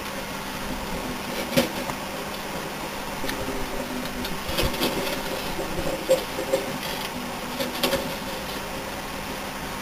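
National microwave oven running with a steady hum, a DVD player burning inside it. Now and then, about four times, a sharp crackle or pop comes from the arcing, burning remains.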